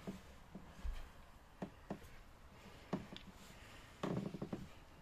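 Quiet room tone with faint scattered knocks and clicks, a quick run of them about four seconds in.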